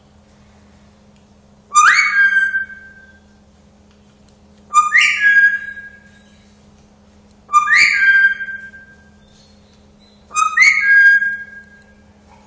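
Pet parrot whistling the same short phrase four times, about every three seconds, each whistle about a second long.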